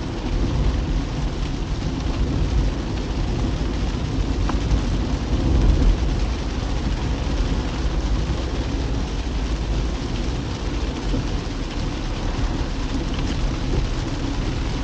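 Car driving on a wet road in the rain: a steady low rumble of road and tyre noise under an even hiss of rain.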